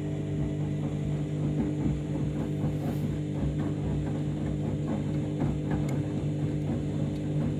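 Washing machine running its deep rinse cycle: a steady motor hum, with water sloshing in the tumbling drum as many small irregular splashes.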